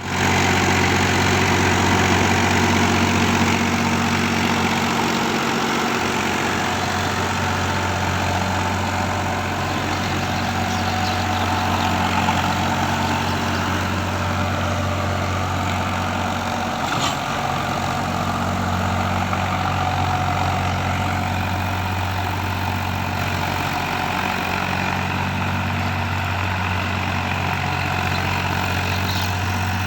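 Tractor engine running at a steady speed while ploughing a field, with a low, even hum. A short click sounds about 17 seconds in.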